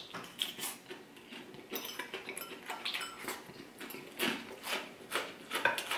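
Chewing a mouthful of Caesar salad, many short irregular crunches, with a fork clinking against the bowl.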